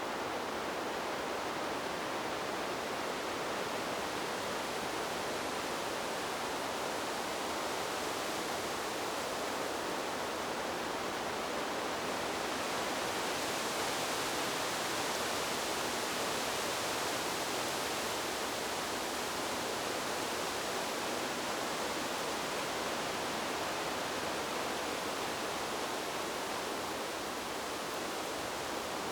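Wind blowing through trees: a steady rushing hiss of leaves, swelling a little and getting brighter around the middle.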